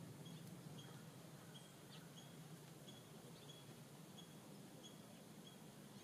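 Faint songbird call: one short, high note repeated evenly about twice a second, over a low steady background rumble.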